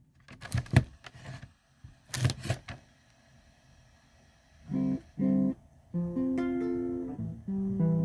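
Handling knocks and clicks, then an acoustic guitar: two short plucked chords about five seconds in, followed by ringing picked notes.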